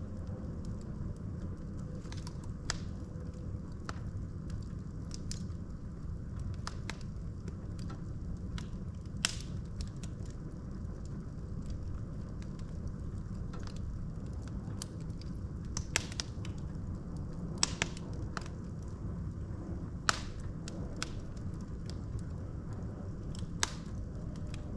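Wood fire burning in a fireplace: a steady low rumble of the flames with scattered sharp crackles and pops from the burning logs, a few louder snaps standing out.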